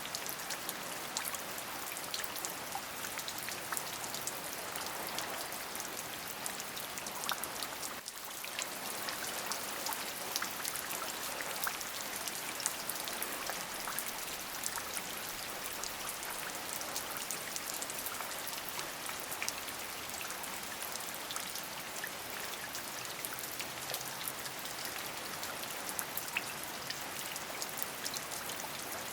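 Steady rainfall, with many separate drop ticks over an even hiss; the level dips briefly about eight seconds in.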